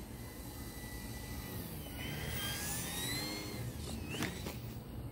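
Whine of an E-flite Eratix flat-foam plane's brushless electric motor and propeller in flight, over a steady low background hum. The whine's pitch climbs about two seconds in, then falls away around the four-second mark.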